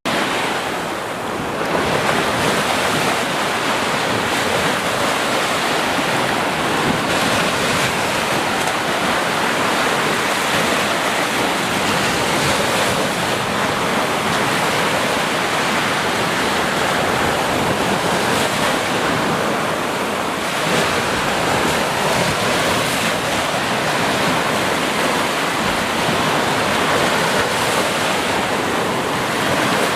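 Ocean waves breaking and washing on a beach: a continuous rush of surf that eases slightly about a second in and again around two-thirds of the way through.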